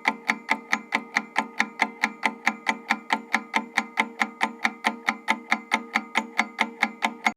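Quiz countdown-timer sound effect: steady clock-like ticking, about four ticks a second, over a constant pitched tone. It cuts off suddenly at the end.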